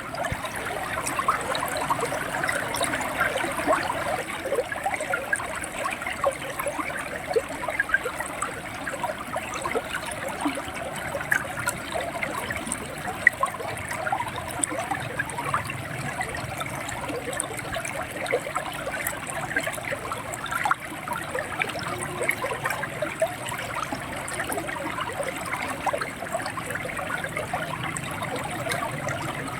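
River water running and gurgling over stones, a steady rushing with constant small splashes and trickles.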